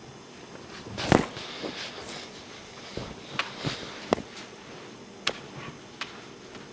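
A handful of irregular sharp clicks and knocks from objects being handled, the loudest about a second in.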